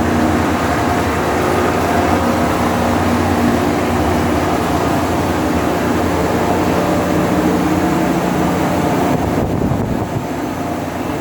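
Tanker engine-room machinery running: a loud, steady drone with a low hum under a dense roar of engines, pumps and ventilation.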